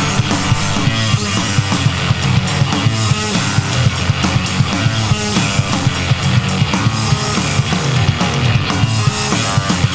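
A noise-rock band playing a loud, dense song on guitar, bass and drums, recorded live through the mixing desk, with a driving, regular drum beat.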